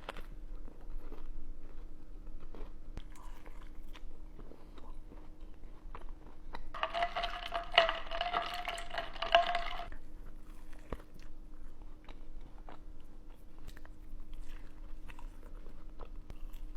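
Close-up chewing and crunching of food, with many small crunchy clicks. In the middle a held high tone with overtones sounds for about three seconds.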